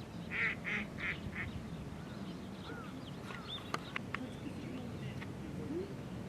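Mallard quacking: four quacks in quick succession about half a second in, then faint short calls and a few sharp clicks.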